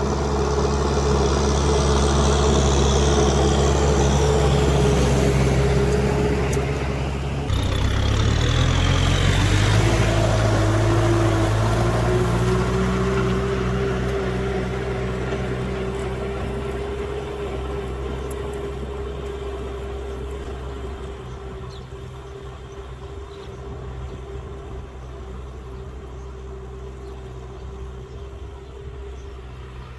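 Kubota M6040 tractor's diesel engine running. Its pitch changes suddenly about seven and a half seconds in, and it then grows steadily fainter over the next ten seconds or so.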